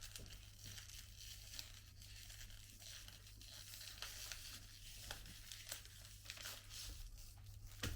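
Faint crinkling and rustling of chocolate wrappers being handled, with scattered small crackles.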